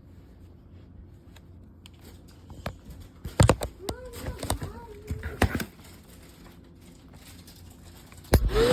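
Clicks and knocks from handling the Shark NV360 Navigator upright vacuum. Near the end there is a loud thump, and the vacuum's motor switches on and spins up with a rising whine.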